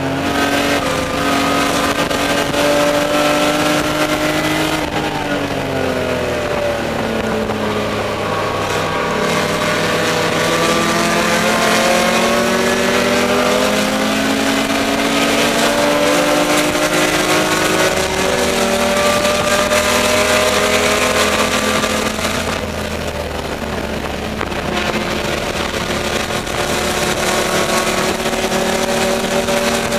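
BMW E30 race car's M20 straight-six engine heard from inside the stripped cabin, pulling hard with its note climbing through the revs. The pitch drops around five seconds in and again around eighteen seconds in, then climbs again, over steady wind and road noise.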